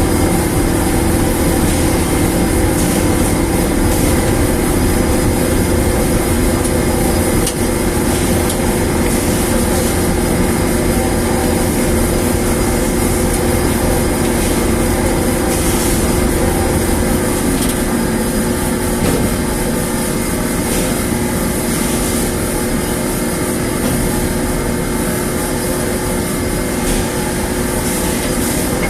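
A newly installed dryer machine running steadily, with a loud continuous mechanical hum and rumble. Its strongest hum tone eases a little past halfway through.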